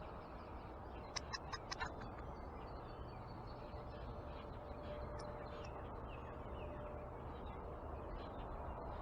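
Small backyard birds calling at a feeder over a steady low outdoor rumble, with a quick run of sharp notes about a second in and faint chirps after.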